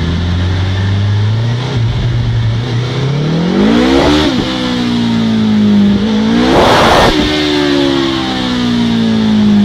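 Motorcycle engine under load on a dynamometer, its revs climbing to a peak about four seconds in, dropping sharply, climbing again briefly with a rush of noise about seven seconds in, then winding down steadily.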